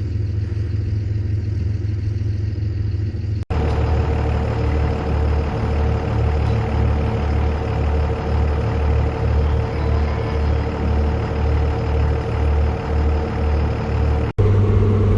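Vehicle engine running at low speed, a steady low rumble that pulses about twice a second through most of the stretch.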